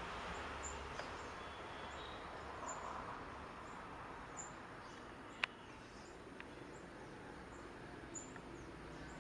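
Faint outdoor background noise with short, high chirps repeating about once a second, and one sharp click about five and a half seconds in.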